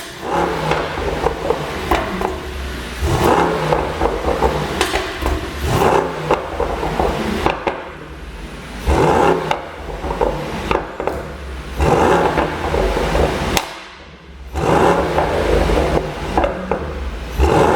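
Mercedes-AMG GT63 S twin-turbo V8 revved repeatedly in bursts, each rise falling back into a string of sharp exhaust pops and crackles from a pop-and-crackle tune.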